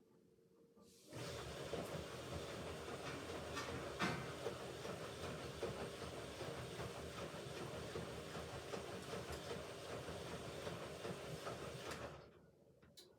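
Hoover Ecologic Computer 1300 washing machine on its rinse cycle, making a steady rushing hiss that starts suddenly about a second in and stops near the end.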